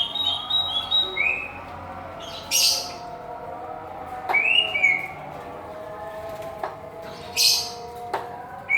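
Birds in an aviary chirping: short whistled chirps that rise and fall, in quick runs of two or three, with two harsh squawks about two and a half and seven and a half seconds in.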